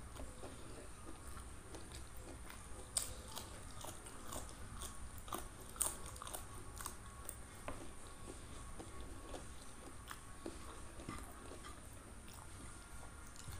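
Close-miked chewing and crunching of a mouthful of food, with irregular small crunches and two sharper, louder ones about three and six seconds in.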